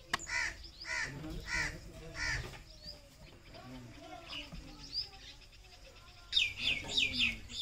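Bird calls: four calls about half a second apart in the first couple of seconds, then a quick series of higher, falling calls near the end.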